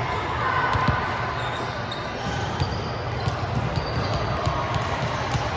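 Volleyball gym court noise: balls thudding on hands and floor and sneakers squeaking on the court, over a steady echoing din with faint voices.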